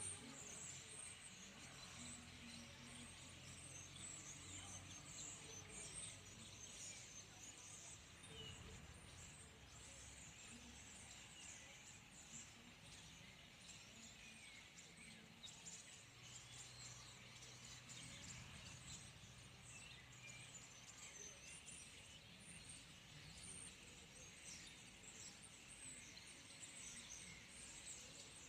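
Faint chatter of a large flock of birds: many short, high chirps overlapping continuously. A low, steady drone sounds underneath at times.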